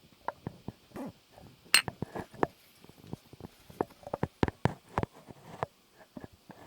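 Close-miked ASMR trigger sounds: irregular small clicks and taps, several a second, the sharpest about two seconds in.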